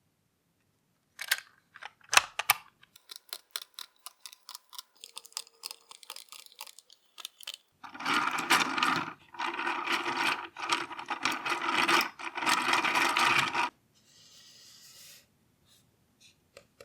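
Small plastic parts of a scale engine model kit clicking and tapping as they are handled and fitted, then four harsh, steady sounds of about a second each, the loudest part, followed by a brief faint hiss.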